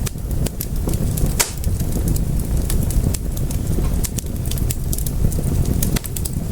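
Fire in a fireplace crackling: a steady low rumble of flames with scattered sharp pops and snaps, the strongest about a second and a half in.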